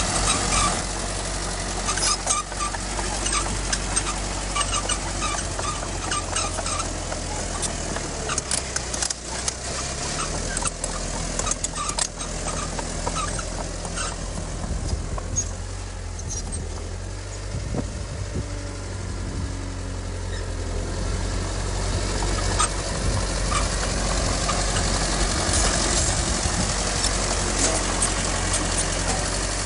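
Heavy diesel earthmoving machine running with a steady low engine drone, with scattered metallic clanks and short squeaks in the first half.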